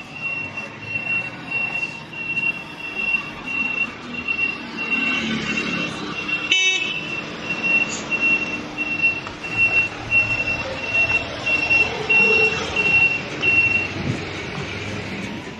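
Vehicle reversing alarm beeping steadily, a single high tone about twice a second, stopping about 14 seconds in. Background noise throughout, and one short sharp sound about halfway through.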